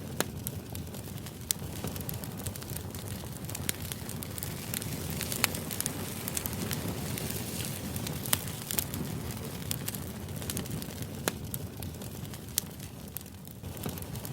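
Crackling fire ambience used as a background noise track: a steady low rumble with irregular sharp crackles and pops.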